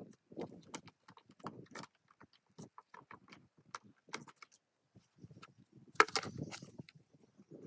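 Scattered light knocks and clinks of metal parts and hand tools being handled, with a louder clatter about six seconds in.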